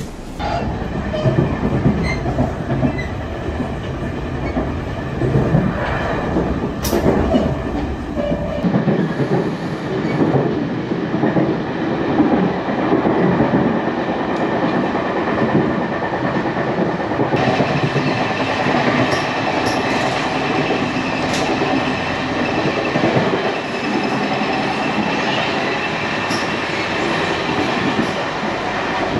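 Tourist passenger train running along the track, its wheels clacking over the rail joints.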